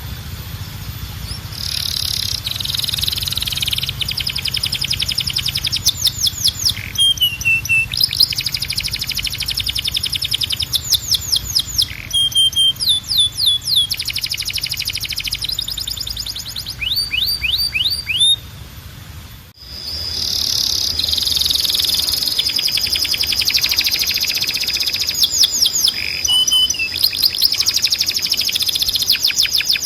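Timbrado canary singing, with long fast trills and rolls and some short gliding notes. The song breaks off briefly about two-thirds of the way through and then carries on, over a faint steady hum.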